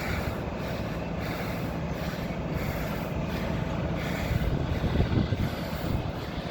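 Heavy construction vehicle engine running with a steady low rumble that grows louder about four seconds in.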